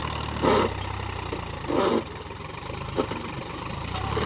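Mahindra tractor's diesel engine running steadily at low revs, with three short, louder bursts of noise over it.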